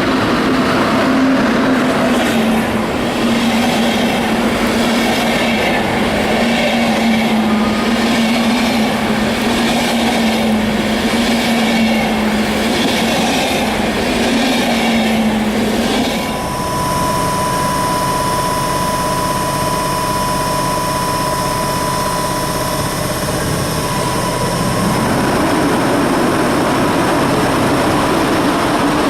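Electric train running on the rails: a steady motor hum that slowly sinks in pitch, with a regular beat of wheels over the track. About halfway through it changes abruptly to another electric train with a steady high whine and several other steady tones.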